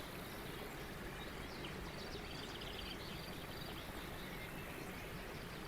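Faint birdsong: small birds chirping and twittering in short, high notes over a steady low hiss.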